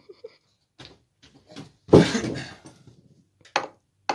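A child tapping a stick on wooden boards: a few light knocks, then two sharper ones near the end. About two seconds in comes one much louder, longer noise that dies away over about a second.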